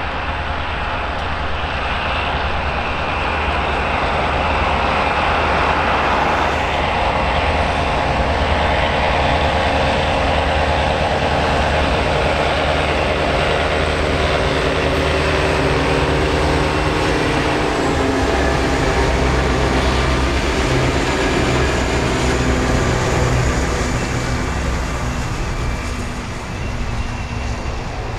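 Diesel locomotives of a container freight train passing close by, engines running, followed by the rumble of the wagons rolling over the rails. The engine note shifts about two-thirds of the way through as the locomotives go by.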